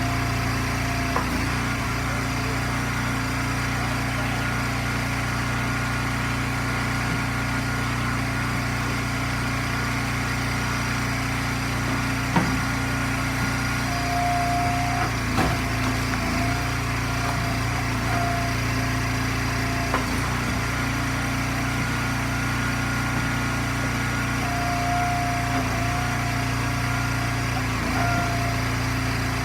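Gas engine of an Eastonmade hydraulic log splitter running steadily, with a few sharp knocks and several brief higher-pitched whines about a second long as ash rounds are split.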